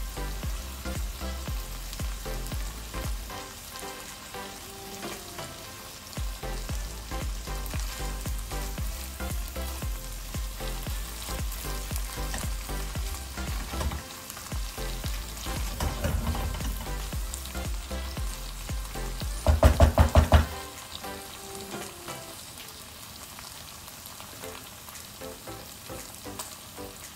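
Three-cup chicken sizzling in oil and sauce in a wok while being stirred with a wooden spatula. A short, louder burst of rapid taps comes about twenty seconds in, and the sizzle is quieter near the end.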